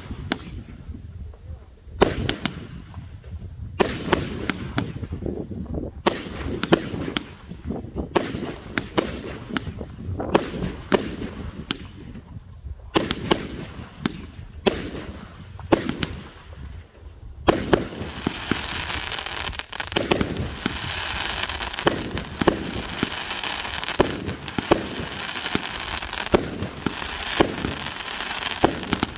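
Fireworks display: a string of separate sharp bangs from bursting shells, each trailing off in an echo. About two-thirds of the way through it turns into a dense, continuous crackle of many small pops.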